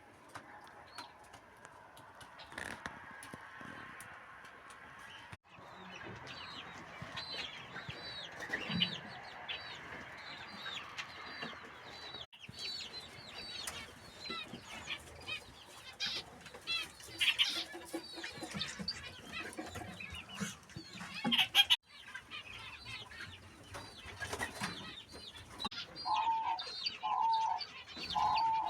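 Chickens clucking and small cage birds chirping, in several short clips cut together. Near the end a bird repeats a short call about twice a second.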